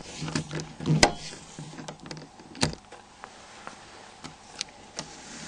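Small Torx screws being tightened with a torque driver on a Nokia N93i's flip cover assembly. There are sharp, irregularly spaced clicks and taps, the loudest about a second in and again past two and a half seconds, with a faint low hum during the first two seconds.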